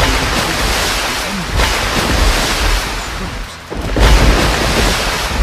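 Ford Mustang GT390's 390 cubic-inch V8 running hard at high revs, a dense, loud rumble that drops off briefly past the middle and surges back about four seconds in.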